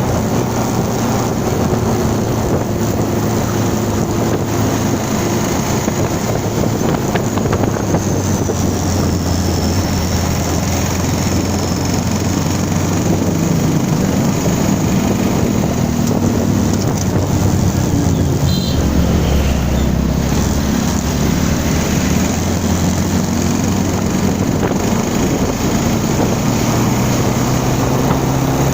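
Motorcycle engine running while riding, its pitch shifting up and down with speed, under steady wind noise on the microphone.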